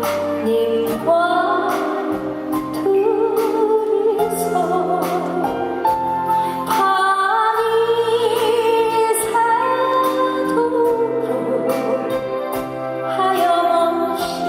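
Woman singing a slow Korean ballad live with band accompaniment, her melody wavering with vibrato over a steady bass line and light regular percussion.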